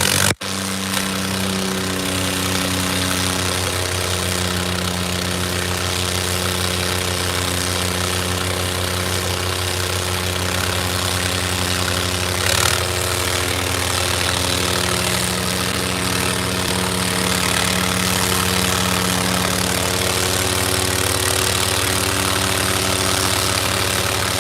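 Diesel tractor engine running steadily at an even pitch. The sound cuts out briefly just after the start.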